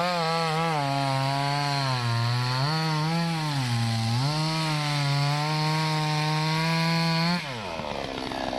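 Salem Master 20-inch two-stroke gas chainsaw at full throttle, cutting through a large, knotty maple log, its pitch dipping several times as the chain bogs under load. About seven seconds in the throttle is released and the engine winds down.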